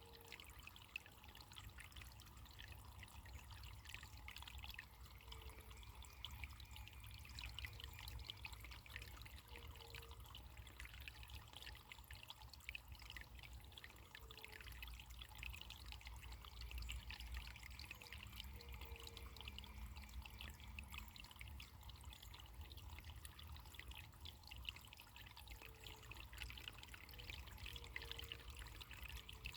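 Running water trickling and splashing steadily, a brook or small stream flowing over stones.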